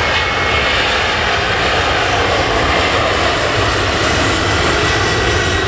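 Airliner engines running with a steady, loud noise and a faint high whine, over a fluttering low rumble from strong wind on the microphone.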